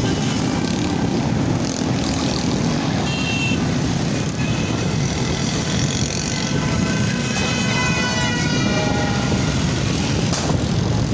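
Ride on a motorbike through street traffic: a steady low engine and road rumble, with horns tooting briefly and repeatedly in high-pitched tones over it.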